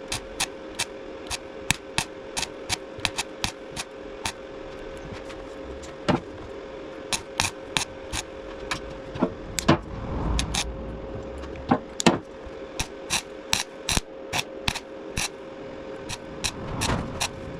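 Repair work on a rusted steel fuel tank while its holes are being plugged: irregular sharp clicks and taps, roughly two a second, over a steady hum.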